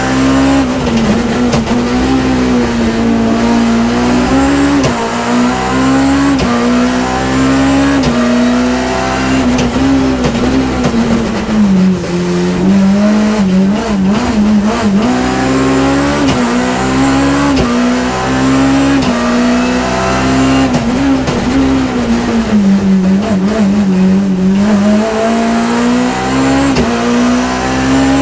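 BMW E30 M3's four-cylinder S14 engine at full throttle near 7,000–8,000 rpm, heard inside the cabin, its pitch repeatedly climbing and dropping back through the gears. Twice, about halfway through and again near the end, it falls to a lower note for a few seconds as the throttle lifts.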